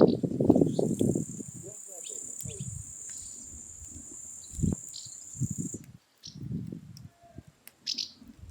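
An insect trills steadily in a high, thin tone for about five seconds, then stops abruptly. Under it come irregular low rumbles, loudest at the start, and a few sharp crackles.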